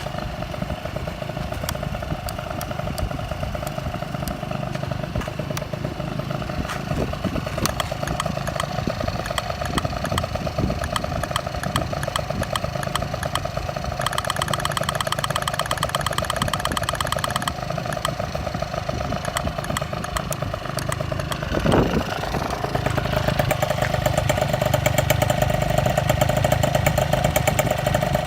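Honda AF27 Dio two-stroke scooter engine, bored up to 74.8cc with an iron cylinder and a sports chamber exhaust, idling steadily. There is a short, louder burst about three-quarters of the way through, and after it the engine runs a little louder.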